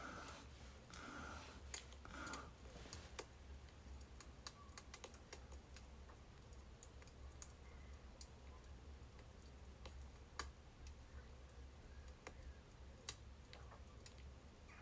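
Birch firewood burning with sparse, irregular crackles and pops over a faint low hum.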